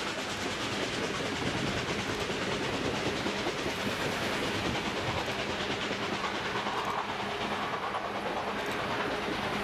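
Railway passenger coaches rolling past at speed, a steady rumble with the wheels clicking over the rail joints.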